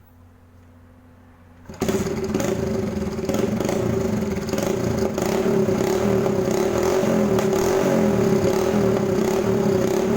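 Hero Honda motorcycle engine running through a homemade exhaust: the stock silencer is replaced by a straight pipe led upward to a large horn-shaped outlet. After a faint hum it cuts in suddenly about two seconds in, then runs loud and steady with a strong drone.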